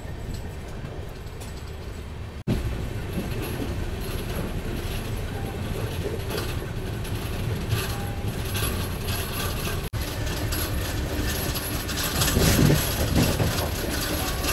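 Janshatabdi Express passenger train running, heard from the coach: a steady rumble of wheels on rail with repeated clicks and clatter as the wheels cross rail joints and points. It grows louder near the end.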